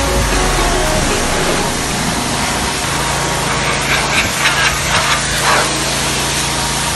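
Car-wash equipment running: a steady rushing hiss, joined by a low steady motor hum from about three seconds in.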